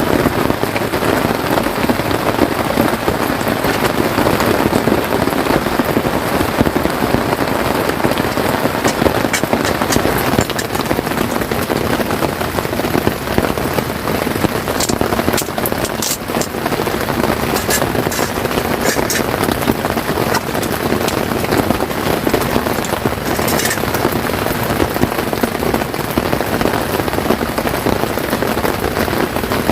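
Steady rain falling on a tent, with a few sharper taps now and then.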